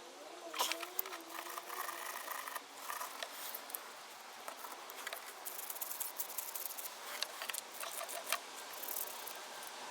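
Scattered light clicks, taps and rattles of small metal parts and hand tools being handled, as the snowmobile's variable exhaust valves are taken apart for cleaning.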